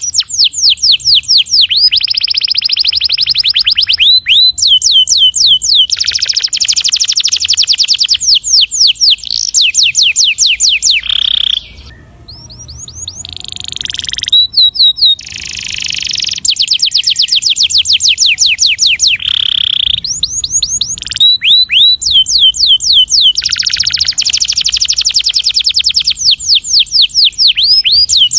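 Domestic canary singing in long, fast rolling trills of rapidly repeated high notes, phrase after phrase with short breaks between them and a brief quieter lull about halfway through.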